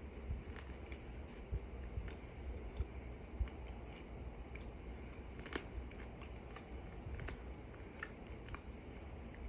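Someone chewing a mouthful of starch, close up: scattered faint mouth clicks and crunches with little squeak, over a steady low hum.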